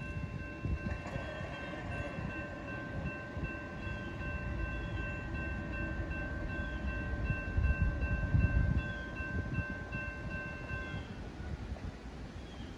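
CSX freight train passing with a low rumble, loudest about two thirds of the way through. A steady, high ringing tone of several pitches is held over it and cuts off near the end.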